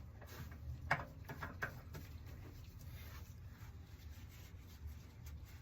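A few faint scrapes and ticks about a second in as a new oil filter, its gasket oiled, is spun onto its threads by hand, over a low steady background rumble.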